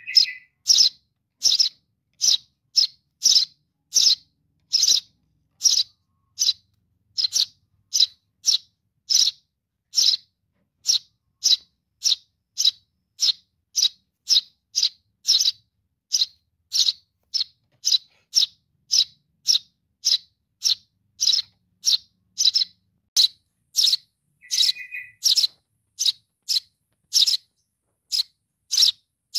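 Sparrow chick calling for its parent: short high chirps repeated evenly about twice a second. A lower, buzzy note comes briefly near the start and again about 25 seconds in.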